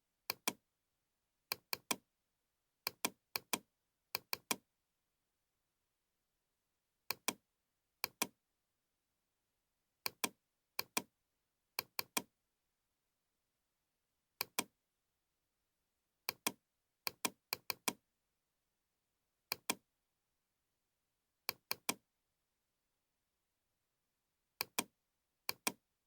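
Computer mouse clicking, mostly in quick pairs like double-clicks, with single clicks among them at irregular intervals and nothing else to be heard between.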